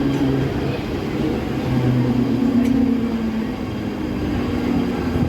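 Mumbai suburban local train (electric multiple unit) running, heard from inside the coach: a steady rumble with low humming tones that shift slightly in pitch.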